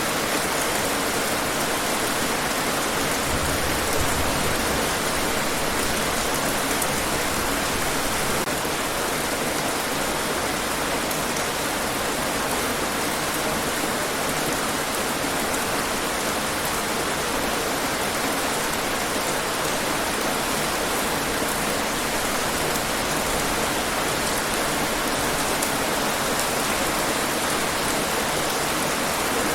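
Steady, even rainfall hiss, falling without pause.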